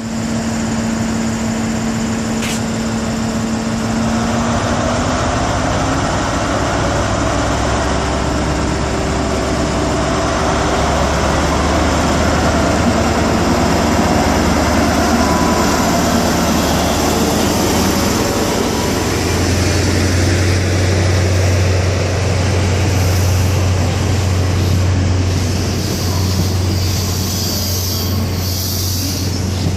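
InterCity 125 High Speed Train's Class 43 diesel power car pulling away: a steady engine note that rises after about four seconds, growing deeper and louder as it powers up, with a further step up about two-thirds of the way through.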